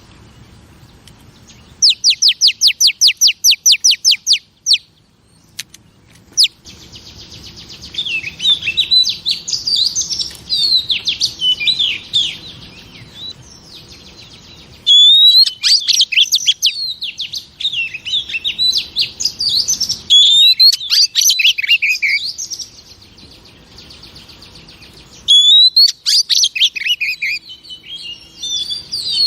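Female oriental magpie-robin singing: first a fast run of about a dozen identical sharp notes, then long, varied phrases of whistles, trills and harsh chatter that come in several bursts.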